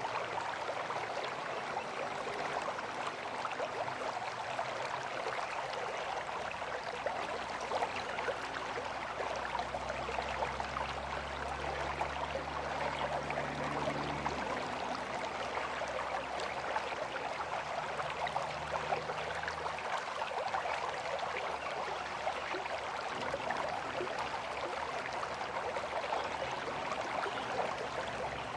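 River water flowing with a steady, even rush. About a third of the way in, a low steady hum, like a motor, joins it for roughly ten seconds and then fades.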